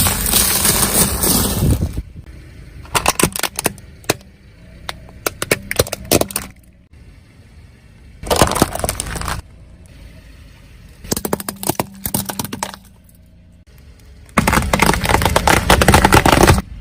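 Brittle objects cracking and crunching as a car's tyre rolls over them, in about six separate bursts of crackling, the longest and loudest near the end.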